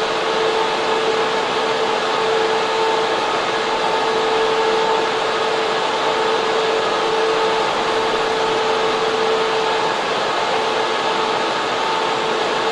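Data center server room with its air cooling and server fans running: a loud, steady rush of air with a constant whining tone running through it.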